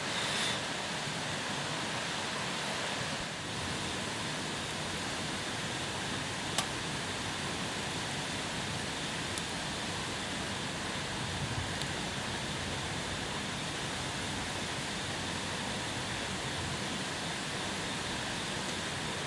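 A steady, even rushing hiss with a few faint sharp clicks scattered through it.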